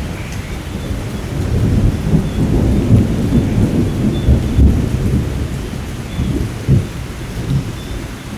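Thunder rolling over steady rain: a low rumble builds about a second and a half in, is loudest through the middle, and dies down near the end while the rain keeps falling.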